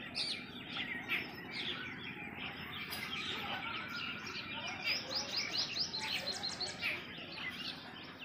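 Several small birds chirping and twittering together in a steady chorus, with a quick run of rapid repeated chirps about five seconds in.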